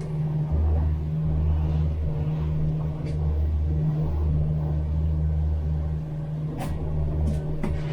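Boat engine running steadily underway, a low drone that swells and eases. Two sharp knocks come near the end.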